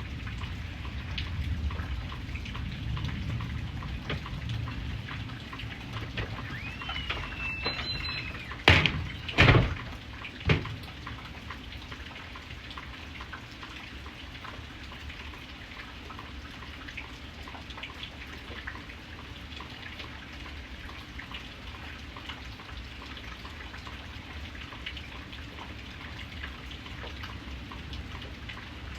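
Steady rain falling, with scattered drips ticking throughout. About nine seconds in come three loud sudden thumps close together, just after a few short squeaky chirps.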